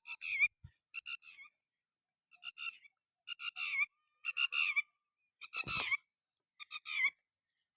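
An animal calling over and over, seven short calls about a second apart. Each call is a quick run of notes ending on a falling pitch.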